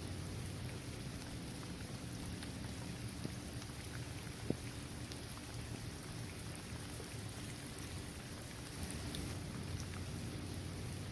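Steady rain falling on a basketball court, trees and grass, with scattered individual drops ticking and one sharper tick a little before halfway.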